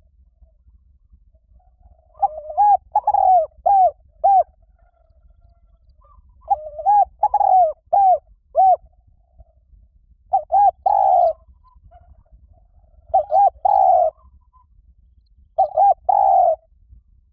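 Spotted dove cooing in five phrases a couple of seconds apart. Each phrase is a short run of rising-and-falling coos, with one fuller, drawn-out note among them.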